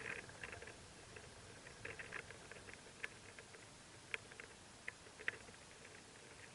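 Northern mockingbird nestlings peeping faintly in the nest: a scatter of short, high squeaks, with a few sharper ones around the middle.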